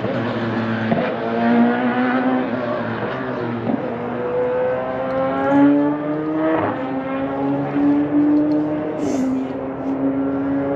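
Race car engines at full throttle on a road course. The pitch climbs and drops sharply several times as the cars shift up through the gears, with more than one car running at once.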